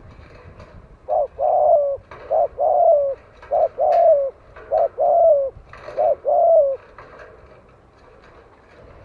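Spotted dove cooing: five paired phrases, each a short coo followed by a longer, slightly falling coo, in a steady rhythm about one pair a second, then a pause near the end. It is the dove's advertising call, used as a decoy call to draw wild doves.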